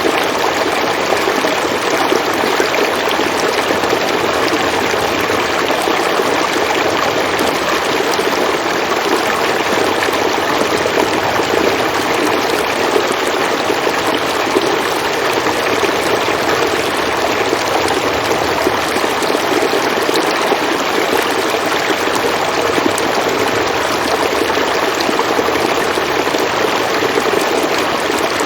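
River water flowing steadily, a continuous rushing and babbling without change.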